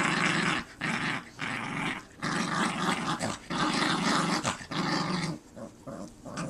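A dog growling in play, a string of about six rough growls roughly a second apart that stop about five seconds in.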